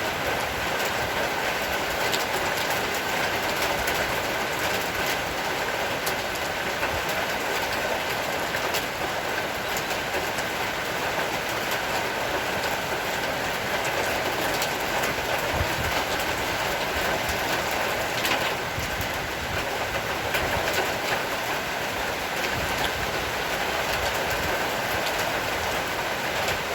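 Heavy rain falling steadily: a continuous hiss with many fine drop ticks, and a faint steady tone underneath.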